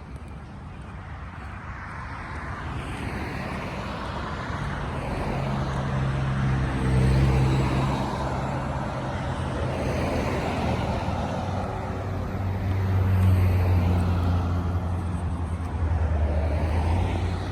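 Street traffic: motor vehicles driving past, with engine hum swelling about seven seconds in and again, louder, from about twelve seconds.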